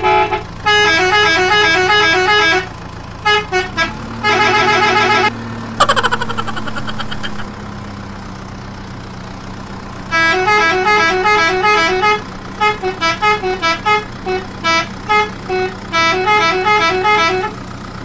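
Rapid electronic horn beeps in quick melodic runs, coming in several bursts that start and stop, over a steady low hum. About six seconds in there is a sharp click followed by a falling tone.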